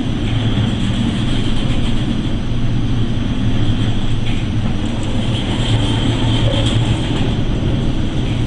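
Steady, loud vehicle rumble with a constant rushing noise, unchanging throughout.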